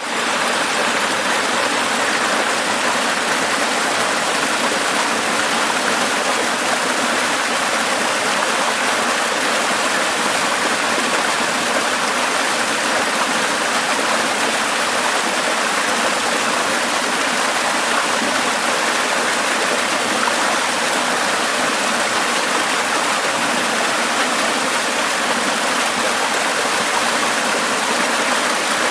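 Running water rushing steadily and without a break.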